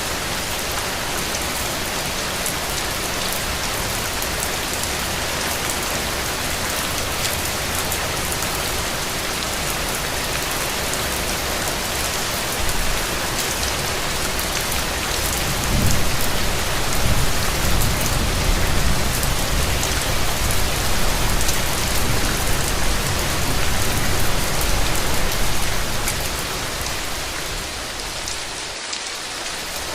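Steady rain falling on hard surfaces. About halfway through, a low rumble swells in and lasts some ten seconds before fading.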